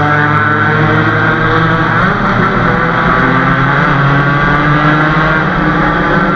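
Motorcycle engine running at a steady cruising pace on the move, its note drifting slightly up and down.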